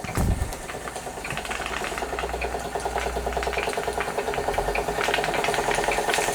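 Wilesco D455 model steam engine running smoothly under steam, with a rapid, even mechanical beat that grows louder over the first few seconds.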